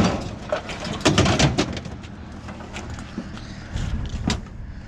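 Sharp knocks and clattering over a low rumble: one knock right at the start, a quick cluster about a second in, and another near the end.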